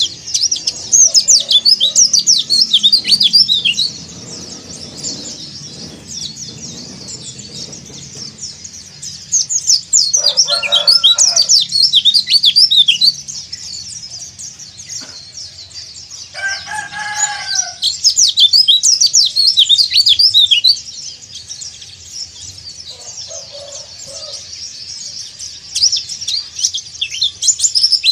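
A white-eye (pleci, Zosterops) singing in bouts of rapid, high twittering chirps a few seconds long, broken by quieter gaps: the song of a bird in breeding condition calling out to rivals. Twice a shorter, lower call cuts in.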